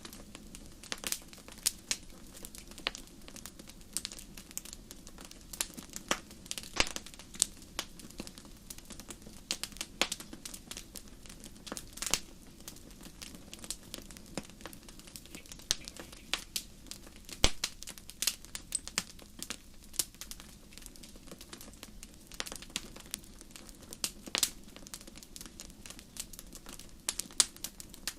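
Fire crackling in a fireplace: irregular sharp pops and snaps, a few a second, some much louder than the rest, over a low steady rush of the flames.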